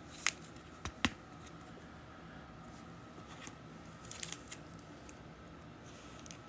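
Trading cards and their packaging being handled on a table: a few soft clicks and scrapes, three in the first second and a small cluster about four seconds in, over a faint steady room hum.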